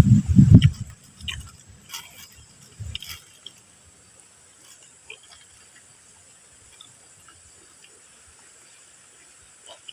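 A loud low rumble for about a second, then a few short crunches of someone chewing crispy basreng chips. After that it is quiet.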